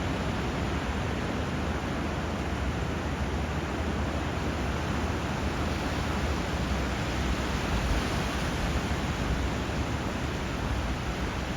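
Steady rushing water where a river flows into the sea, an even hiss with no single wave or birdsong standing out.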